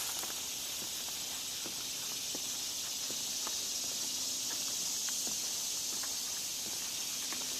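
Steady high-pitched insect chorus, with faint scattered footsteps and twig or leaf crunches from walking on the trail.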